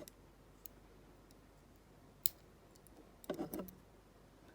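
Faint, sharp clicks of small metal lock parts: spool driver pins and springs being worked out of a pin-tumbler padlock cylinder. A louder single click comes about two seconds in, and a short cluster of clicks and rattles follows a little over a second later.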